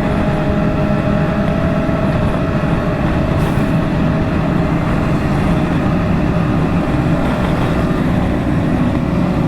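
Motorcycle engine running at a steady cruising speed, with a constant rush of road and wind noise.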